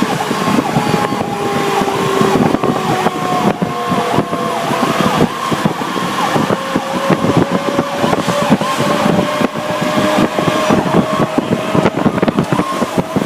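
Cab noise of a Pierce Arrow XT tractor-drawn aerial ladder truck running on an emergency response: engine and road rumble with rattling, under a siren repeating a quick rising-and-falling cycle.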